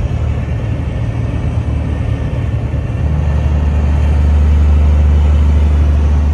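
Heavy truck's diesel engine droning inside the cab while driving, a deep steady hum that grows louder about three seconds in.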